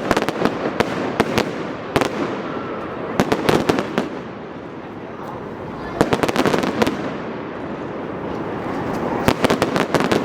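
Fireworks going off: clusters of sharp bangs and crackles from bursting shells, coming in groups about a second long every two to three seconds, over a steady background hubbub.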